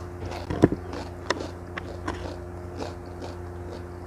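Close-miked crunching as a slice of raw cucumber is bitten and chewed. There is a loud crisp crunch just over half a second in, then softer crunches at irregular intervals.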